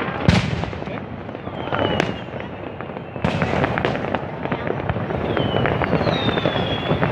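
Fireworks going off: dense crackling throughout, with sharp bangs about a third of a second in and again just after three seconds, and several whistling rockets.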